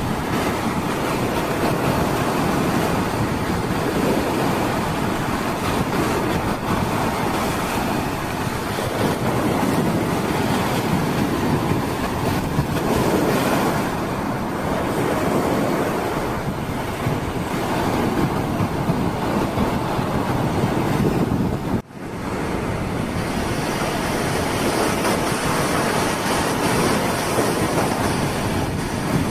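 Strong wind buffeting the microphone over the steady wash of sea surf on a beach. The sound drops out sharply for an instant about twenty-two seconds in.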